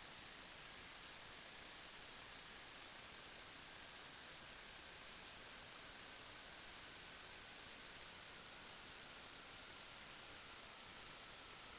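Steady high-pitched electronic whine over a faint hiss, with a weaker lower tone that slowly drops in pitch: electrical noise picked up by a sewer inspection camera's recording system.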